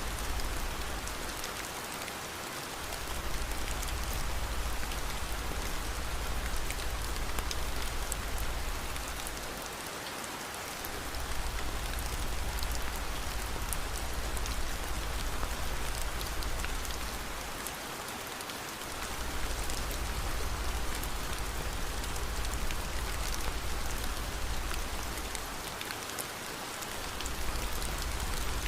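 Steady rain falling on a surface, with a deep low rumble underneath that briefly fades out about every eight seconds.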